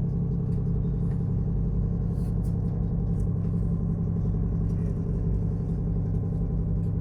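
Steady low drone of a ship's diesel machinery, a constant hum with several fixed tones.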